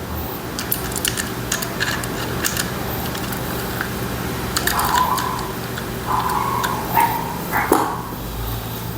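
Scattered light metal clicks of a wrench turning and seating the clutch pressure-plate bolts on a CGP 250cc motorcycle engine, over a steady low hum. Two short whining tones come about halfway through.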